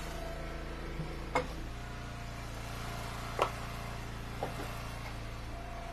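An engine running steadily in a low hum, with three sharp knocks about a second and a half, three and a half and four and a half seconds in.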